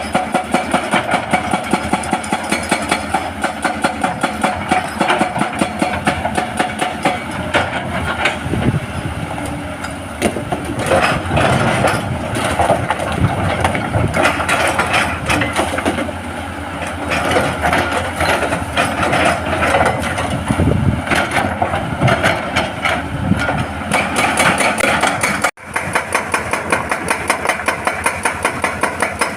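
Hydraulic breaker on a Hitachi excavator hammering rock: a fast, steady train of sharp blows, several a second, over the excavator's diesel engine running. The sound drops out for an instant about three-quarters of the way through.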